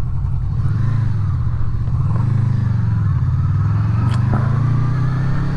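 Honda VFR800's V4 engine running under way, its pitch rising and falling a few times as the revs change.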